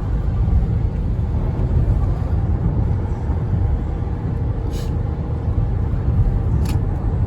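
Steady low rumble of a car driving, heard inside the cabin: road and engine noise, with two faint ticks near the end.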